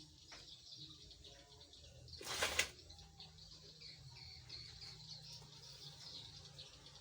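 Small birds chirping faintly and steadily, with one brief loud flapping rustle a little over two seconds in.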